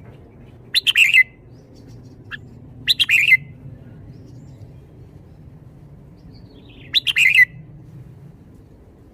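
Red-whiskered bulbul singing: three short song phrases of about half a second each, spaced a couple of seconds and then four seconds apart, with a faint single note between the first two. The phrases are in the 'bottle-shaking' song style.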